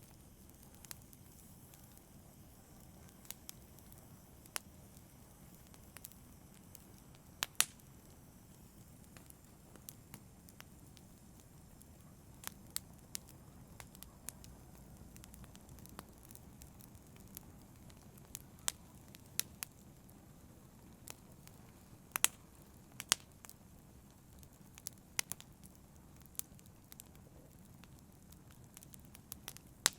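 Campfire burning: a low steady rumble of flames with irregular sharp crackles and pops from the burning wood, a few of them loud pops.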